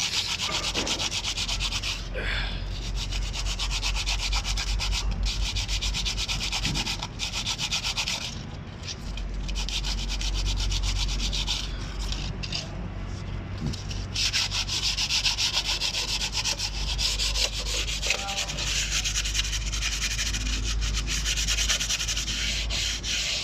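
Cylinder head of a BAIC BJ40L engine being faced by hand with an abrasive: rapid, continuous rubbing strokes that ease off briefly about a third of the way in and again around halfway.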